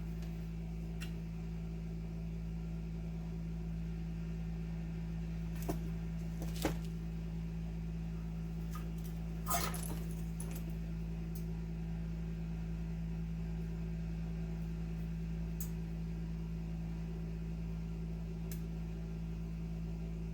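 Steady low hum with a few small clicks and taps from handling wiring parts, three of them between about six and ten seconds in.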